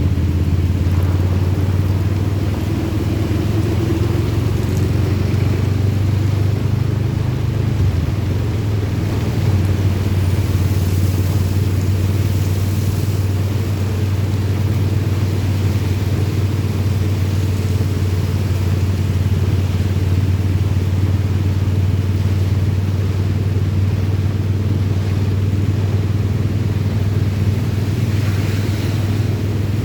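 Steady low drone of a road vehicle driving at a constant pace, with engine and road noise.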